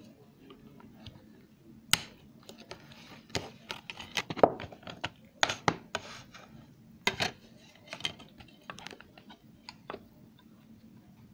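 Irregular clicks, taps and knocks of objects being handled in a small room, loudest in a cluster a few seconds in, over a faint steady hum.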